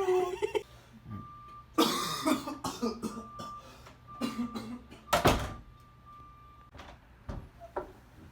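A person coughing: a few separate coughs, the loudest about five seconds in.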